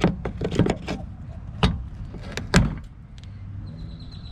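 Sharp clicks, snaps and knocks of plastic being handled and broken: a quick cluster in the first second, then a few single louder knocks. These come from the small plastic retaining pieces of a car's fake exhaust tips being broken off so the tips can be pulled free.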